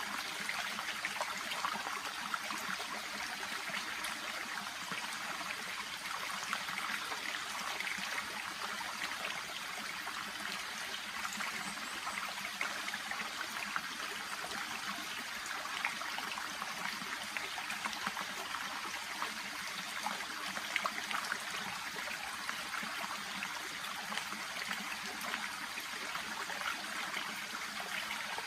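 Shallow brook babbling and trickling steadily, water running over stones with small splashes and gurgles.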